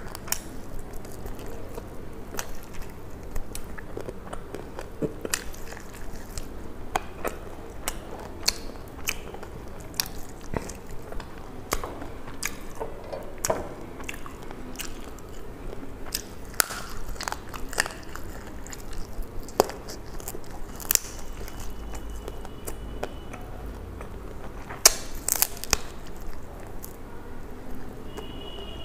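A person chewing and biting into crisp fried chicken feet, close to the microphone, with many sharp crunches at irregular intervals over steady wet chewing.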